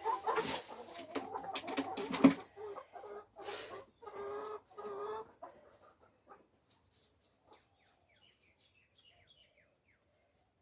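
Backyard hens clucking and squawking, with clatter and a sharp knock about two seconds in, then fading to faint high cheeps.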